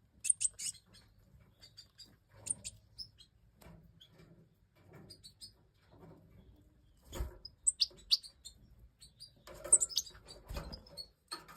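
European goldfinches chirping: short, high chirps scattered throughout, with a couple of dull knocks, about seven and ten and a half seconds in.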